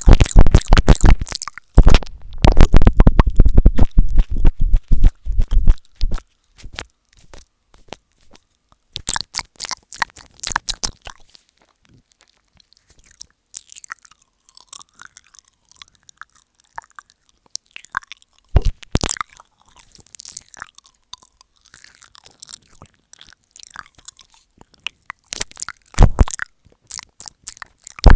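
ASMR mouth sounds right on an earphone microphone ('mic eating'): wet clicks, smacks and crackles. They come thick and loud for the first few seconds, then thin out to scattered clicks, with short louder bursts later on.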